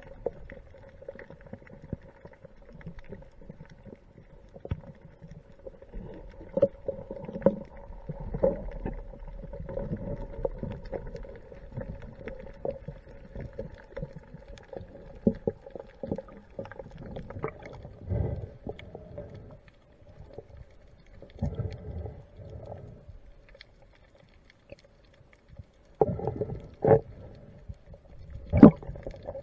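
Muffled underwater sound picked up by a diver's camera: water rumbling and sloshing in irregular low surges over a faint steady hum, with a few sharp knocks near the end.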